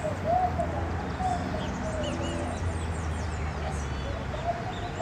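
Birds calling: a series of short, low, arched coos, with small high chirps scattered among them over a steady low background hum.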